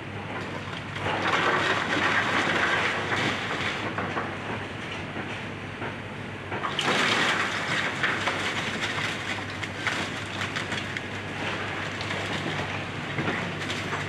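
Excavator tearing down a house: its diesel engine runs steadily while wood and debris crunch and clatter, in two louder spells, about a second in and again near the middle.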